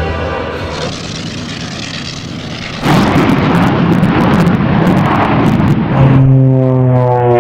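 Aircraft engine noise: a rushing sound that turns suddenly much louder and rougher about three seconds in. About six seconds in it gives way to a steady drone with several even tones.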